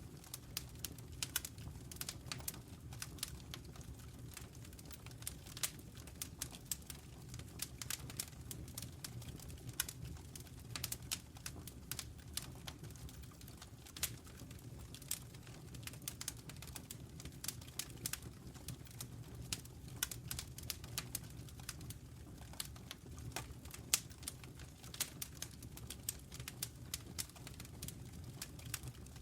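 Wood fire burning in a fireplace: frequent irregular crackles and pops over a steady low rumble.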